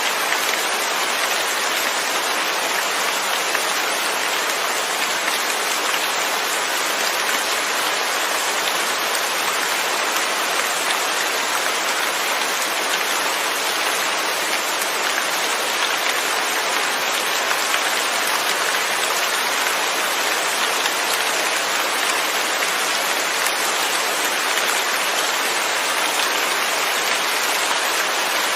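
Steady, even rain falling, without thunder.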